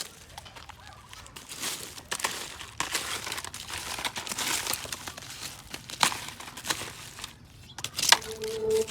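Crinkly rustling and handling noise, with scattered light clicks and taps, as of things being handled and rummaged through.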